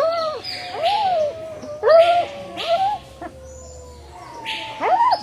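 Animal calls: a run of short cries that rise and fall in pitch, about one a second, over a scratchy hiss.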